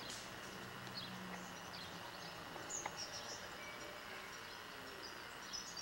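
Scattered short, high bird chirps over a faint steady background hiss, with a faint low hum in the first two seconds.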